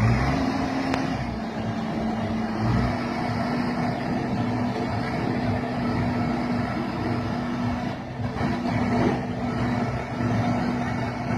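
A crane's diesel engine running steadily under load, with a held low hum that drops slightly in pitch about three seconds in.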